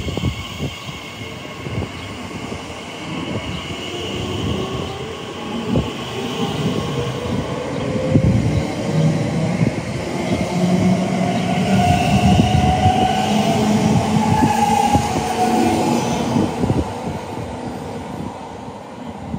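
Electric multiple-unit train running along the track: rail and wheel noise swells through the middle with a motor whine that rises in pitch, then fades toward the end.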